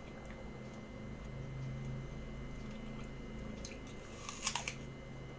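Someone chewing crisp raw apple, with a short burst of crunchy clicks about four seconds in.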